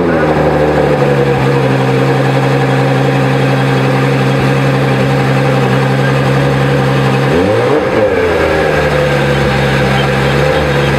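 Ferrari F12 Berlinetta's 6.3-litre 65-degree V12 just after start-up, dropping from its start-up flare into a steady idle. It is blipped once about seven and a half seconds in, the pitch rising and falling quickly, and starts to rise again near the end.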